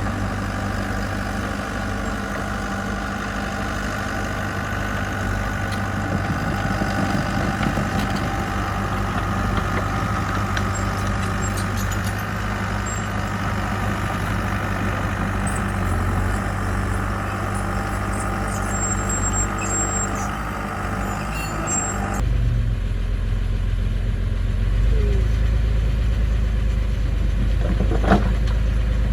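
Diesel engine of heavy construction machinery running steadily under work. About three quarters of the way through, the sound changes abruptly to a deeper, duller engine tone, with a single knock near the end.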